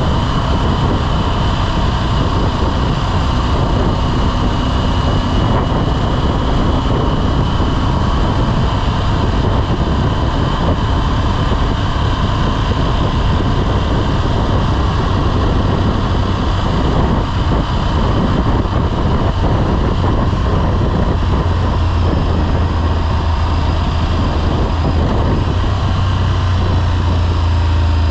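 Motorcycle under way: engine running steadily with road and wind noise, the low rumble growing a little stronger near the end.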